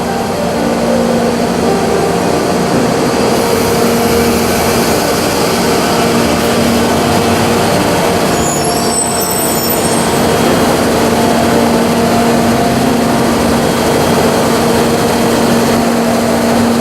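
Steady hum of EF64 electric locomotives standing at a platform with their blowers running: a loud, even noise with a constant low drone, and a few faint high tones about halfway through.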